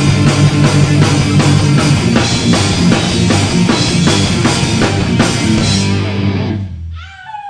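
Rock band playing live with electric guitar, bass and drum kit, the instrumental close of a song. The band stops about six and a half seconds in, leaving a short, quieter tone that wavers in pitch.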